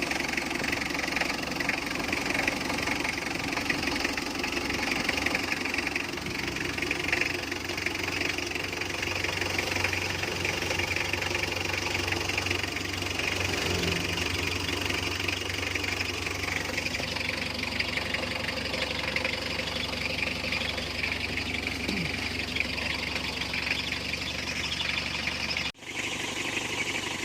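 Mitsubishi L300's engine idling steadily after being started on a new battery, with a brief dropout in the sound near the end.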